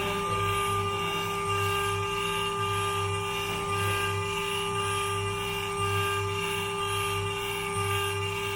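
Small CNC grinding machine's high-speed spindle running steadily with a constant whine, grinding down a layer of a phone board. Underneath, a low hum pulses about twice a second.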